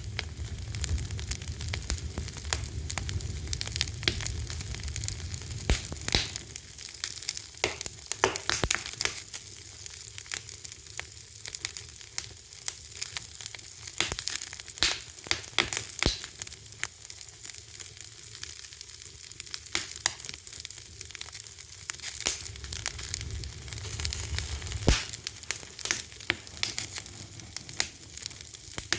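Wood fire crackling: a steady hiss with many sharp pops and snaps at irregular intervals, and a low rumble that swells and fades.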